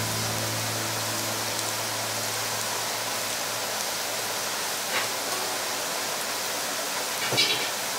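Minced garlic and dried red chili peppers sizzling in oil in a frying pan: a steady, even hiss, with a short click about five seconds in and another near the end.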